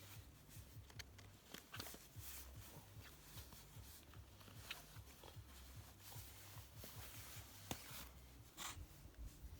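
Faint rustling with scattered small clicks and scrapes, the sound of ice-skate laces being pulled tight and handled.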